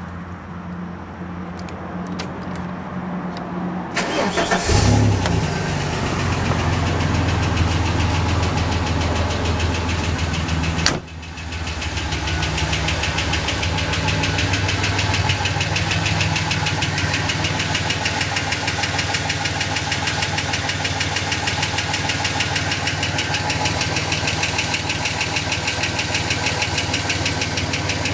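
Ford EF Falcon XR6's straight-six engine idling with a fast, steady ticking/flapping noise from under the car, around the flywheel, gearbox or extractors. The owner first dismissed it as an exhaust leak, but it has grown worse and sounds more mechanical. The engine surges briefly about five seconds in.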